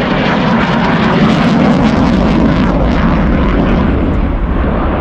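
F-35B Lightning jet in flight: a loud, steady jet roar.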